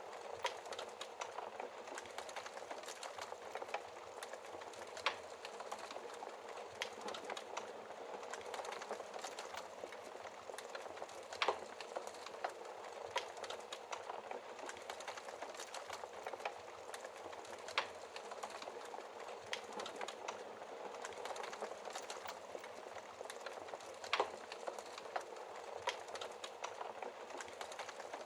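Wood fire burning in a fireplace: a steady fizzing crackle of logs with scattered small snaps and a few louder pops every several seconds.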